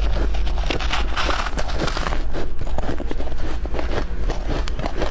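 Close-miked crunching of powdery freezer frost being bitten and chewed, a rapid run of crisp crackles with a hissier stretch of crunching about a second in.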